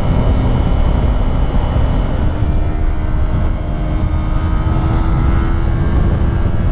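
A 2018 Yamaha YZF-R3's parallel-twin engine pulling under heavy wind noise. About two seconds in the engine note steps up, then climbs slowly.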